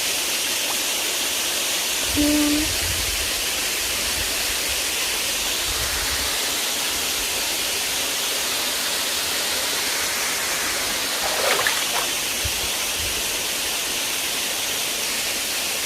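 Steady rushing hiss of a waterfall, with a few brief low thuds about two seconds in and again near the middle.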